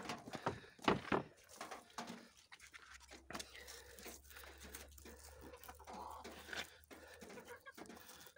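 Chickens moving about after being let out of their coop: occasional soft clucks among many short scuffs and clicks.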